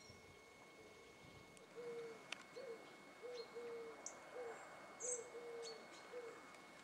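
A bird giving a series of soft, low hooting notes, about nine in all, some short and some drawn out, with faint high chirps from small birds.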